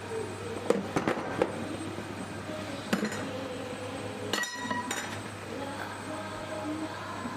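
Metal tools or parts clinking and tapping against each other in a workshop: a quick cluster of sharp clinks, then a few single ones, over a steady low hum.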